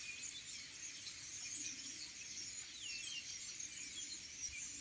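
Small birds twittering faintly, many quick high chirps overlapping.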